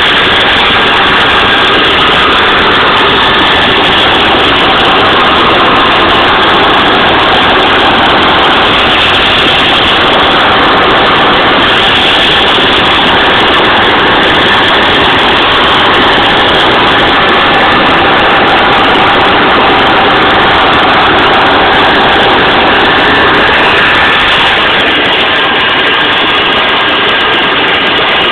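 Helicopter running: a loud, steady engine noise with a faint whine, easing off slightly about 24 seconds in.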